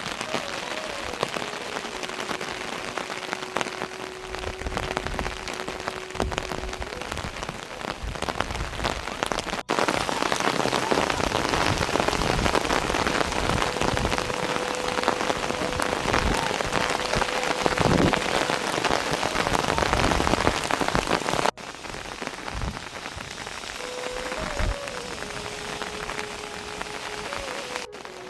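Steady rain falling and pattering on surfaces. The level jumps abruptly a few times, louder through the middle stretch and softer again after about two-thirds of the way in.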